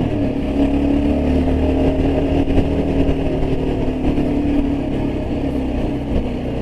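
Yezdi Adventure motorcycle's single-cylinder engine running steadily at cruising speed, with road and wind noise.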